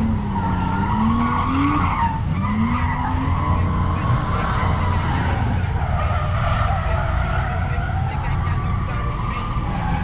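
Car drifting: the engine revs in rising surges while the tyres squeal and skid.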